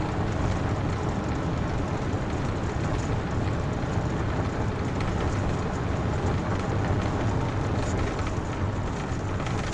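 Police car driving at speed during a pursuit: a steady mix of engine and road noise.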